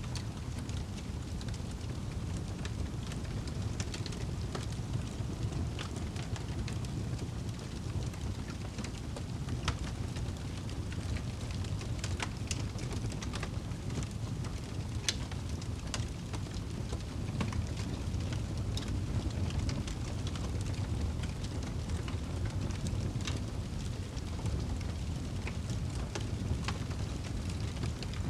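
Wood fire crackling in a fireplace: a steady low rumble of flames with frequent sharp pops and crackles scattered irregularly throughout.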